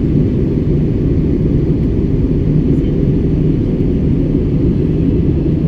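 Steady cabin noise of an aircraft in flight, heard from inside the passenger cabin: an even, low drone of engines and airflow that does not change.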